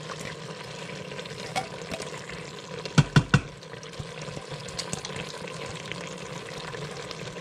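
Chicken pieces sizzling steadily in an Instant Pot's steel inner pot on the sauté setting as canned cream soup is spooned in. Three sharp knocks in quick succession a little after three seconds in.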